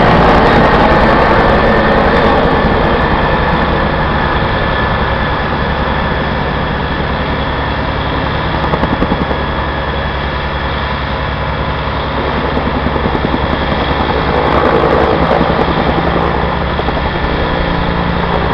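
Firefighting helicopter running, its rotor chopping in a fast even beat over the engine noise. Loud throughout, easing a little in the middle and swelling again near the end.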